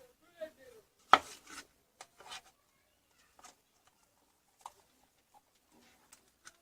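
A sharp knock about a second in, then scattered light clicks and taps of hard objects being handled.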